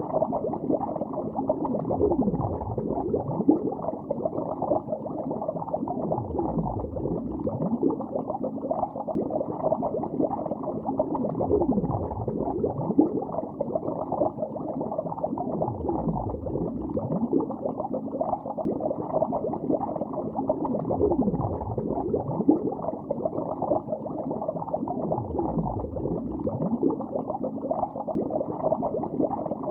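Water bubbling continuously, heard underwater: a dense, muffled gurgling with a deep downward-sliding gurgle about every four to five seconds.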